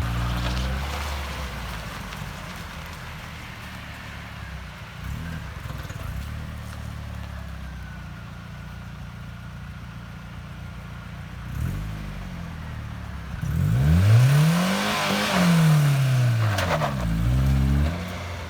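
The 1998 Isuzu Amigo's engine runs steadily at low revs, then is revved hard several times near the end, the pitch rising and falling with each rev, in an attempted burnout.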